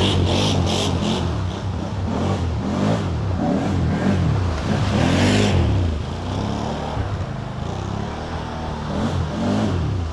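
Can-Am off-road vehicle's engine revving up and down again and again as it works in a mud hole. A short rushing noise comes about five seconds in.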